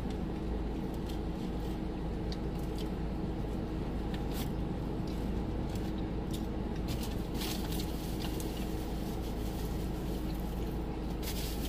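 Steady low hum of a car interior with a few soft clicks and squishy sounds of food being eaten and handled.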